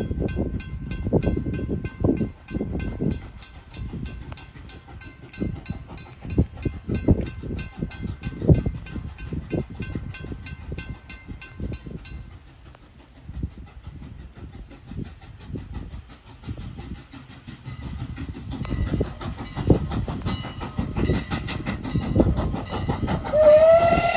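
Strasburg Rail Road No. 89, a 2-6-0 steam locomotive, and its cars rolling past, with rhythmic thumps of wheels over rail joints. A bell rings in rapid, even strokes through the first half and stops about halfway. A steam whistle starts to blow just before the end.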